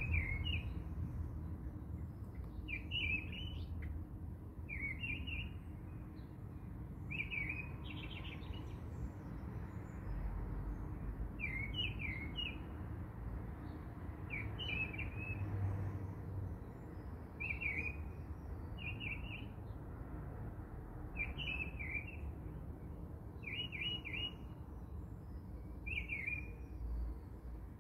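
A small bird chirping over and over, short high phrases every second or two, over a low steady rumble.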